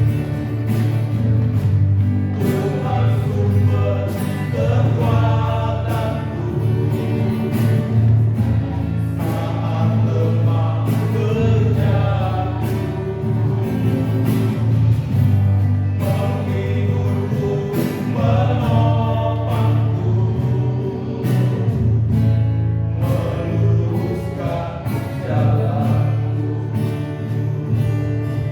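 Gospel-style choir singing over a steady bass and beat.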